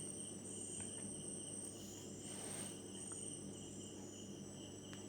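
Faint, steady chorus of crickets in a garden: several high, unbroken trilling tones.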